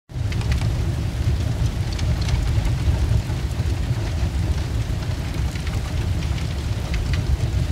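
Fire sound effect: a steady low roar of burning flames with scattered crackles.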